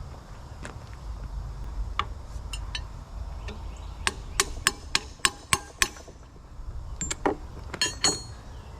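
Hammer striking a steel punch to drive a stuck slip-clutch plate off a Tulsa winch shaft, metal on metal. A few scattered strikes, then a quick run of about seven sharp hits, then a few more ringing hits near the end.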